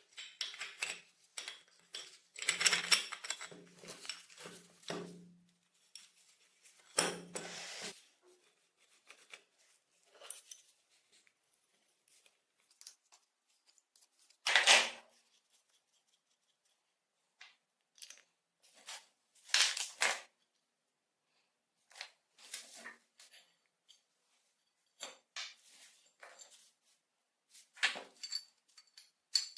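Metal parts and tools being handled: scattered clinks, scrapes and clatters, with longer scraping stretches in the first few seconds and a louder clatter about halfway through and again around twenty seconds in.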